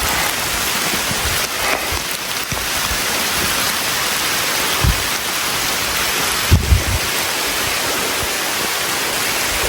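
Steady rain falling, an even dense hiss, with a few brief low thumps in the middle.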